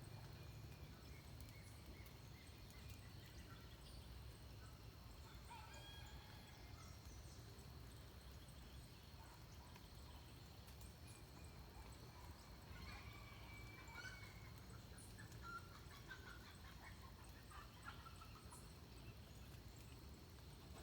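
Faint forest birds calling: scattered short chirps and whistled notes, clustered a few seconds in and again past the middle. Under them run a low steady rumble and a thin, steady high tone.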